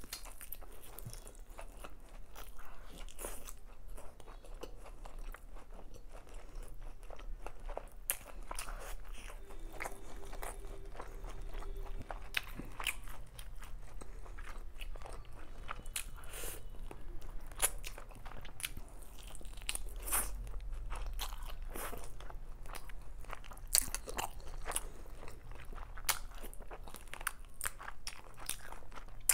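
Close-miked chewing and biting of chicken biryani eaten by hand: many short wet clicks and crunches, one after another.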